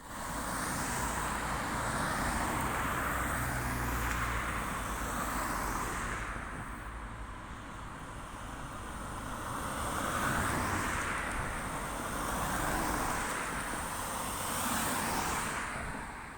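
Road traffic passing close by, several vehicles going past one after another, each a swell of engine and tyre noise that rises and fades.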